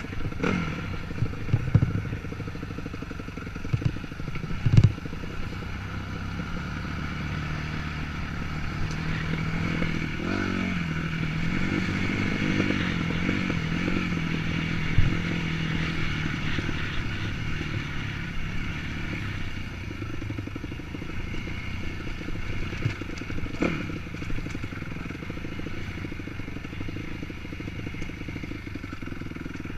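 Dirt bike engine running at low revs on a rough trail, its pitch rising and falling now and then, with clattering, scraping and occasional knocks from the bike.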